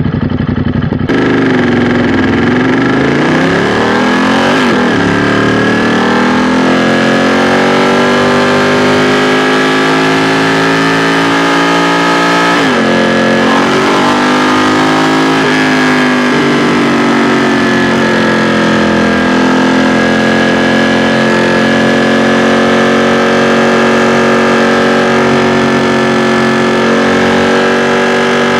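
2016 Ducati XDiavel S 1262 cc V-twin engine under way, its revs climbing and then dropping sharply about 5, 13 and 15 seconds in as it is shifted up through the gears. It then holds a steady note at cruising speed.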